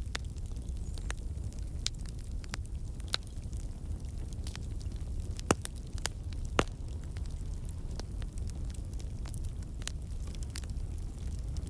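Wood campfire burning with a steady low rumble of flame and frequent sharp crackles and pops from the logs, two louder pops a little past the middle. The crackling comes from water and sap in the wood turning to steam and escaping.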